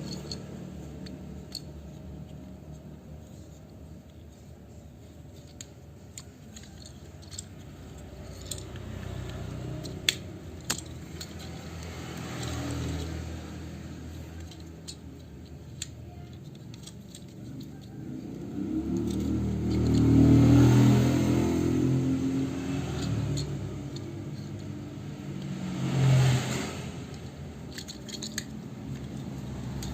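Hard plastic toy parts clicking and rattling as a transforming robot toy is handled, with scattered sharp clicks, then a louder low rumbling stretch about two-thirds of the way through.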